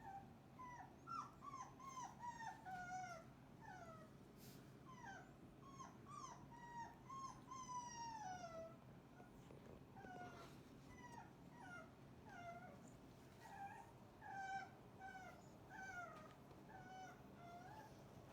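Cane Corso puppies whimpering: a faint run of short, high whines that each fall in pitch, coming several a second, with a short lull about halfway through.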